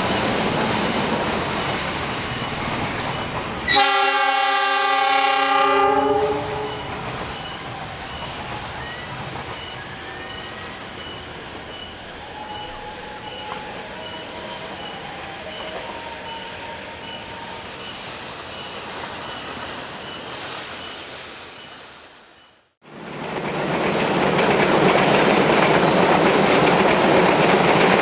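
A train running past on the track, with the locomotive's horn sounding one blast of about a second and a half, roughly four seconds in. The rumble then fades slowly as the train moves away. After a sudden cut, another train passes close by, its wheels clattering over the rail joints.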